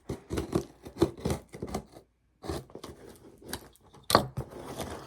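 Paper and packaging rustling, tearing and crinkling as a gift box is unpacked by hand: irregular clicks and scrapes, broken by a short dead gap about two seconds in.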